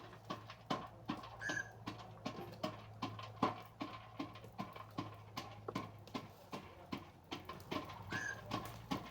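Repeated sharp knocks or taps, irregular at a few a second, over a steady low hum, with a short high chirp twice.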